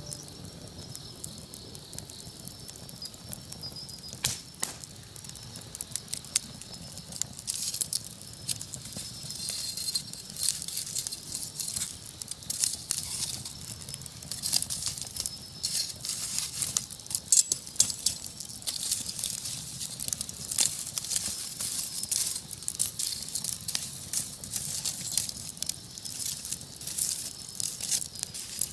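Wood campfire burning, with dense, irregular crackles and pops that grow busier about eight seconds in.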